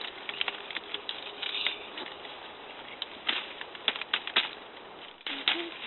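Dry twigs and leaf litter crackling and snapping in irregular clicks, with a few louder snaps in the second half.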